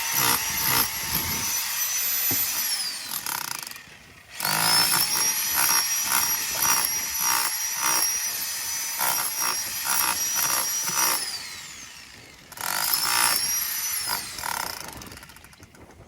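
Electric jackhammer running in three bursts, the middle one the longest: a steady high motor whine over hammering noise. Each time it stops, the whine falls in pitch.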